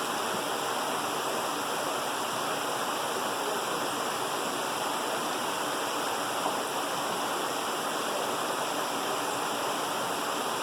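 Stream water rushing steadily down a small waterfall cascade, an even, unbroken splash and rush.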